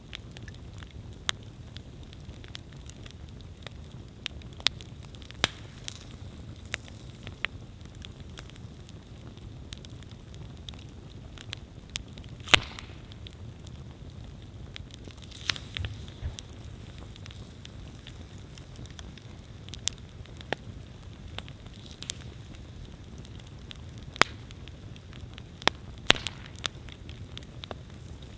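Wood campfire burning with a low steady rumble and irregular sharp crackles and pops, one louder pop about halfway through.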